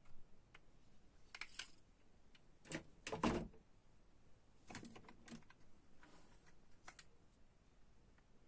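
Scattered light clicks and clacks of diecast toy cars being handled, with the loudest clatter about three seconds in.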